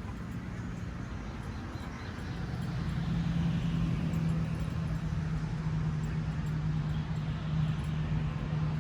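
A steady engine hum with a haze of noise, growing louder about two and a half seconds in and then holding.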